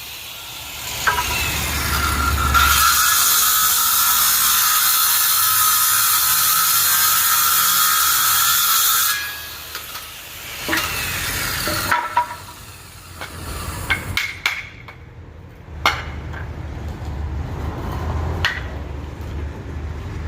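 A power tool cutting, running steadily for about eight seconds and then stopping abruptly, followed by quieter knocks and clicks.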